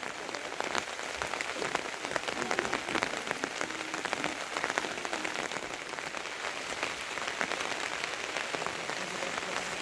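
Heavy rain falling: a steady hiss thick with many sharp close drop hits.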